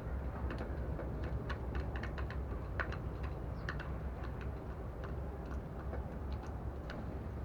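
Sparrows pecking seed from a feeding dish: a quick, irregular patter of small beak clicks over a steady low rumble.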